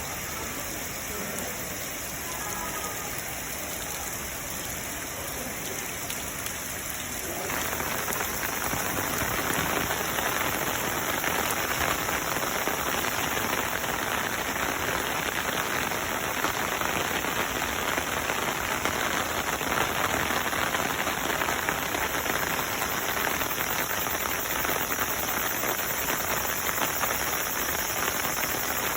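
Steady rain falling and pattering on surfaces. It grows louder and brighter about seven seconds in.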